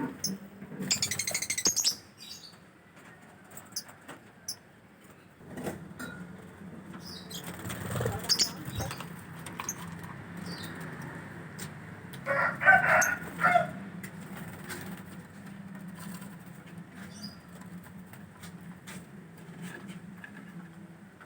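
Bird calls: a high, rapid chirping trill about a second in, scattered short chirps, and a louder pulsing call a little past the middle, over a steady low hum.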